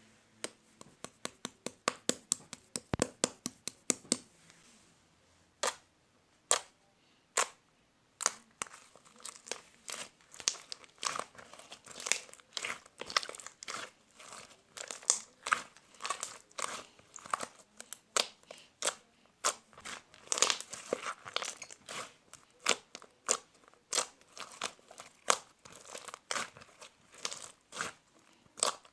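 Slime being squished and poked by hand, giving sharp clicks and pops. A quick run of about four pops a second at first gives way to a few single pops, then dense, continuous crackling and popping.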